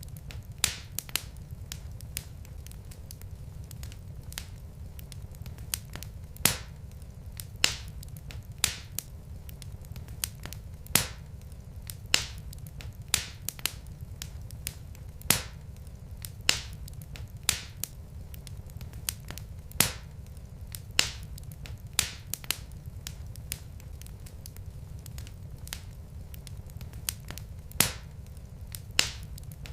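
Logs burning in a fireplace, crackling with sharp, irregular pops about one or two a second over a low, steady rumble.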